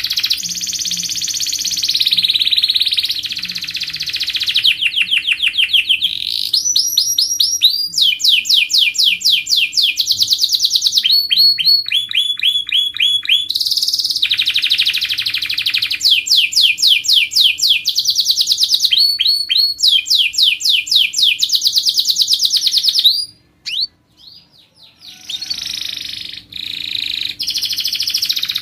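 Domestic canary singing a long song made of rapid trills of repeated notes, switching from one trill to the next every second or two, with a break of about two seconds near the end.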